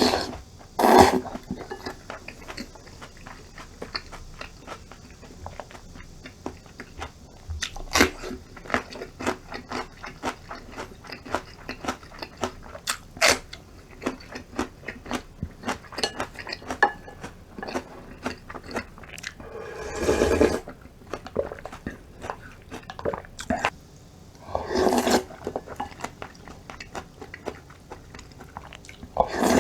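A person eating, miked up close: crisp crunching and chewing with many short clicks. There are three longer, louder bursts, one near the start and two in the second half.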